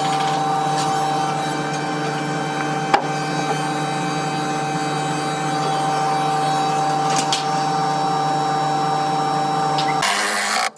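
An electric power tool running steadily at a constant speed, with one sharp click about three seconds in. It stops abruptly near the end.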